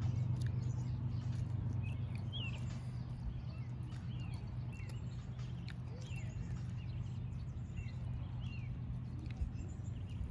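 Birds chirping, with short calls every second or so, over a steady low hum.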